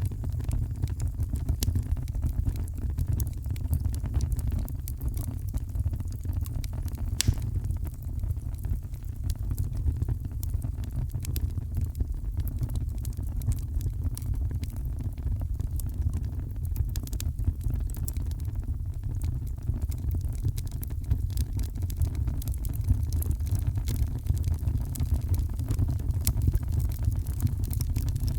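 Heavy rain as a steady, deep rumbling hiss, with a fireplace crackling in scattered sharp pops.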